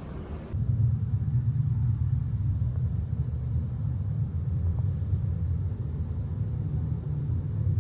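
Steady low rumble that begins abruptly about half a second in.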